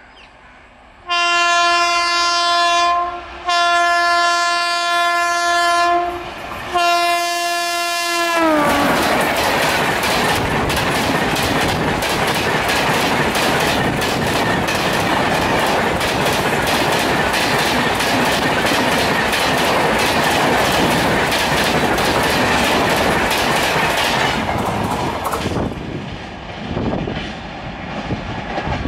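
Indian Railways train passing at speed. The locomotive's horn sounds three long blasts, and the last one drops in pitch as the engine goes by. Then the coaches rush past with a fast, rhythmic clickety-clack of wheels over rail joints for about sixteen seconds, before the noise falls away sharply near the end.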